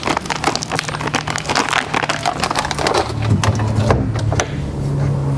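Coffee beans poured from a bag into the grinder's bean canister: a dense rattle of many small clicks that thins out about four seconds in.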